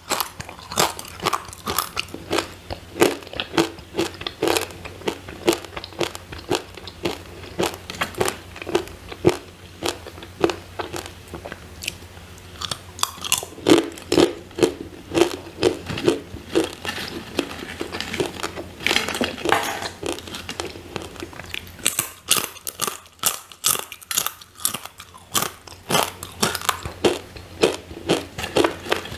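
Crispy sweet potato chips being bitten and chewed close to the microphone: a rapid run of sharp crunches, two or three a second.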